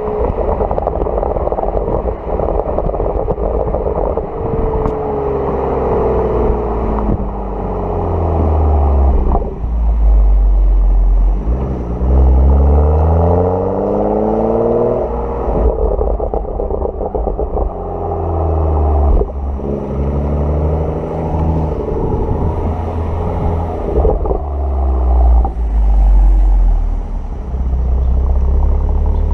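Exhaust of a 2015 BMW 335i (F30) with the M Performance exhaust and BMW Power Kit: the turbocharged straight-six's note climbs and drops over and over as the revs rise and fall, with a few short sharp cracks in between.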